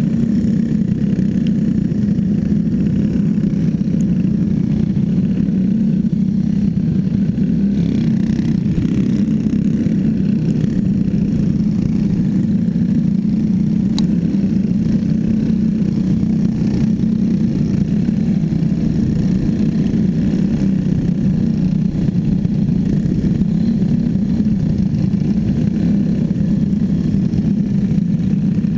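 Racing kart's small clone engine running at a steady, nearly constant pitch, with a single faint click about halfway through.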